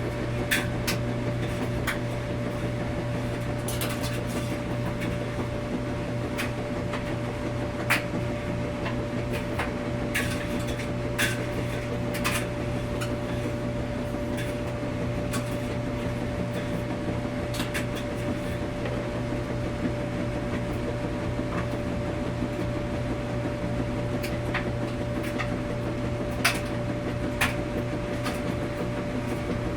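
Washing machine running with a steady hum and a couple of fixed tones underneath, dotted with irregular light clicks and clinks.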